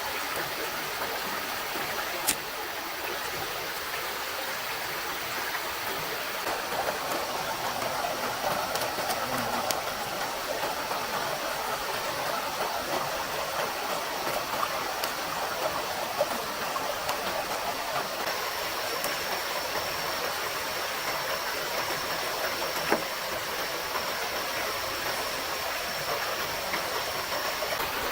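Steady rushing of a stream flowing over rocks. A few sharp clicks are scattered through it, and a thin, steady high tone sounds through the latter part.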